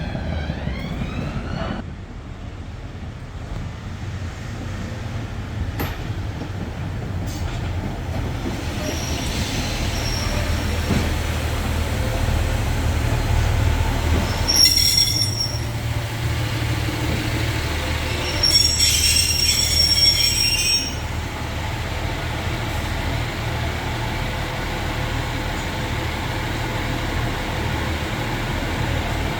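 Heritage diesel-hauled train running past with a low rumble that builds toward the middle, with two spells of high metallic squealing from the wheels, the second lasting about two seconds, then settling to a steady rumble.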